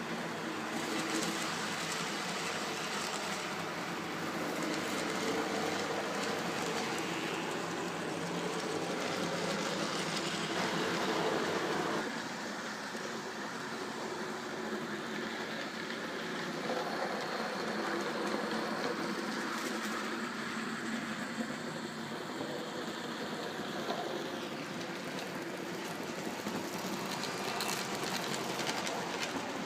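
N gauge model train running along the layout track with a steady running sound that eases a little about twelve seconds in.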